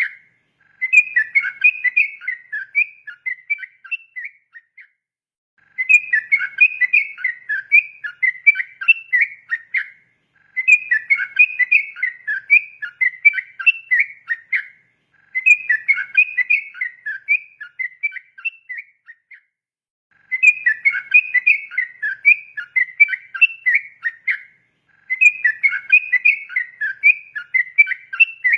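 Yellow-vented bulbul (trucukan) singing a long, rapid chattering song in repeated bouts of about four seconds with short pauses between, six bouts in all; it is the lure song played to train young trucukan to sing.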